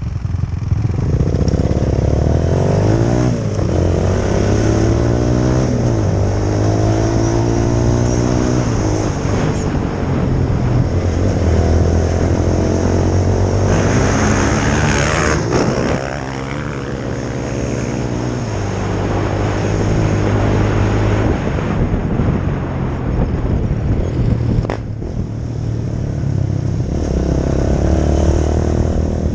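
2004 Honda CRF450R single-cylinder four-stroke dirt bike engine running hard, its pitch repeatedly climbing and dropping back as the throttle opens and closes. A burst of wind-like noise comes about halfway through, and a sharp click comes near the end.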